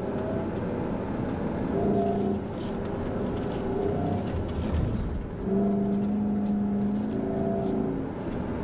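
SUV engine running hard over soft sand, holding its revs for a second or two at a time, then shifting, with a steady low rumble from the tyres and body, heard from inside the cabin.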